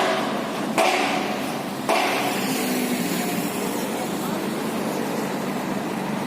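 Diesel truck engine idling steadily, with three sudden knocks or clanks in the first two seconds.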